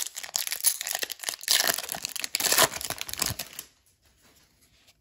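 Hockey card pack wrapper being torn open and crinkled, a dense crackling that stops after about three and a half seconds.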